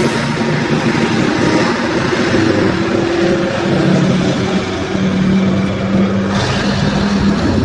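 A motor vehicle's engine running steadily, its pitch shifting slightly now and then, under a loud rush of noise that grows brighter about six seconds in.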